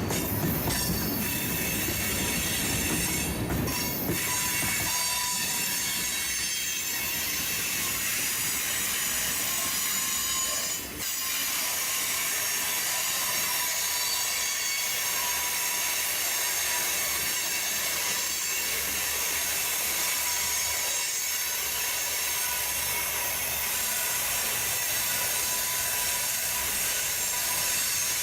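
Freight train cars rolling past with a steady, high-pitched squeal of wheels on the rail. A heavier low rumble fades out about four seconds in.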